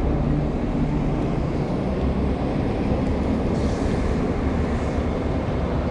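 Steady rumble of a BART rapid-transit train in motion, with a low hum over continuous rail and running noise.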